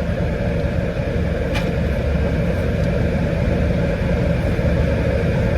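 Steady car cabin noise: a low engine and road rumble with an even hum, heard from inside the car, and a faint click about a second and a half in.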